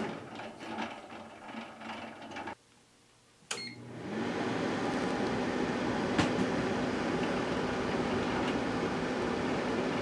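Microwave oven stops, the metallised Pringles can crackling and ticking faintly inside it; after a second of near silence a keypad press beeps and the oven starts up again, its hum rising and then running steadily while more time is added, with one sharp click a couple of seconds later.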